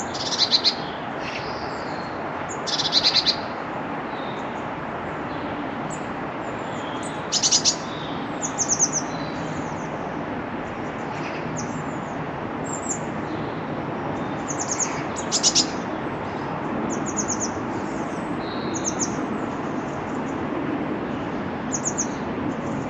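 Small garden birds calling: short, high, rapidly repeated chirps and trills at irregular intervals, over a steady low background noise.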